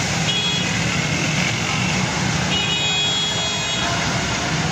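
Heavy rain falling steadily on a street, with traffic passing through the water on the wet road. A high tone sounds briefly near the start and again for about a second in the middle.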